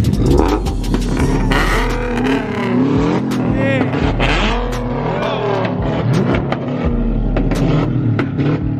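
Several car engines revving at a car meet, their pitch repeatedly climbing and dropping in short blips over the steady rumble of other engines running.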